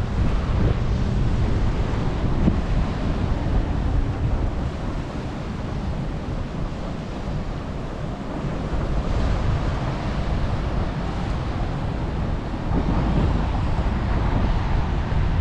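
Strong wind buffeting the microphone: a loud, unpitched rumble that rises and falls in gusts.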